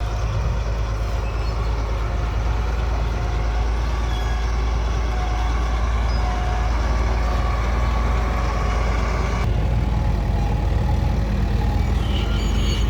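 A train running, a steady heavy low rumble. About nine and a half seconds in the sound turns duller, and near the end a faint high squeal comes in.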